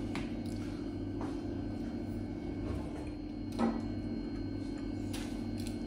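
Soft mouth sounds of someone chewing pizza: a few faint smacks and clicks, with a slightly louder one about three and a half seconds in, over a steady low hum.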